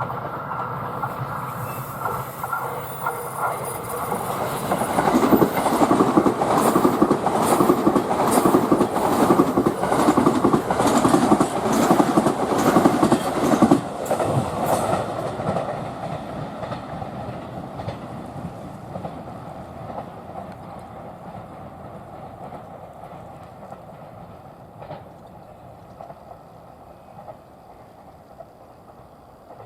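A train passing on the rails, its wheels clacking over the rail joints in a regular rhythm about twice a second; it builds up, is loudest for about ten seconds, then fades away.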